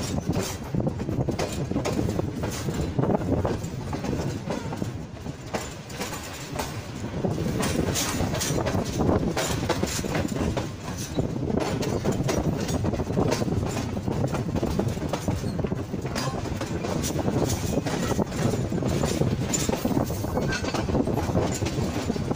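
Passenger coach's wheels rolling on the rails, with a steady rumble and irregular sharp clatters as they pass over rail joints and points, heard from the coach's open doorway.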